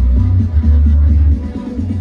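Loud electronic dance music with very heavy bass played through the Blizzard Audio truck-mounted sound system; the bass drops away briefly near the end.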